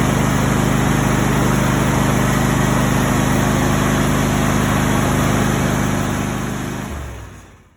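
Engine idling steadily, then shut off near the end, dying away to silence.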